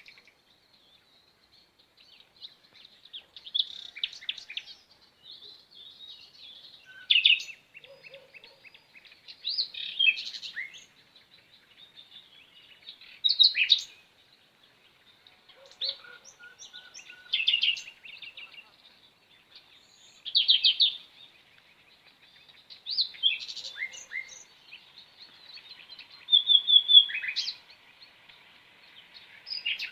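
Small songbirds chirping and singing in short bursts of high-pitched chirps and trills, a new phrase about every three seconds.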